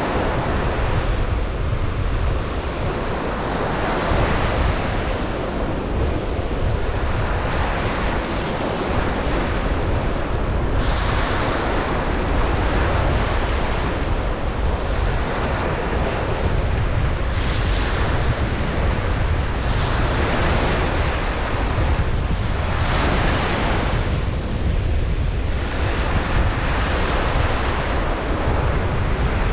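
Ocean surf on a beach, waves breaking and washing in one after another every five or six seconds over a steady low rumble.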